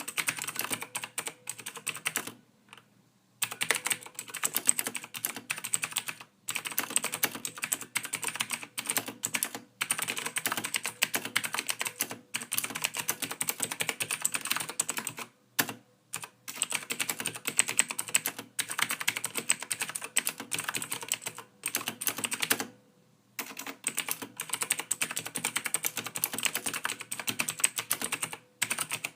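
Soft computer keyboard typing: quick runs of keystroke clicks broken by short pauses, the longest about two and a half seconds in, around fifteen and a half seconds in, and around twenty-three seconds in.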